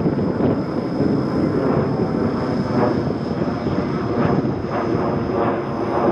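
Boeing P-8A Poseidon's twin CFM56 turbofan engines running, a loud steady jet noise as the aircraft flies the pattern.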